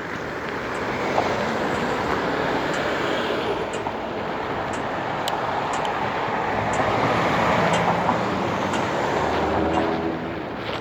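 Road traffic noise with wind rushing over the microphone while cycling; a motor vehicle's engine passes close, loudest about seven to nine seconds in.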